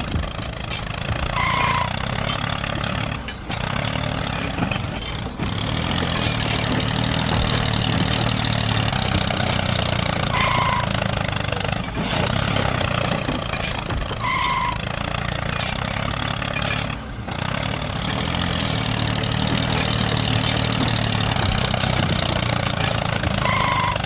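A tractor engine running steadily with a low hum. Short high chirps cut in a few times, about 1.5, 10.5, 14.5 and 24 seconds in.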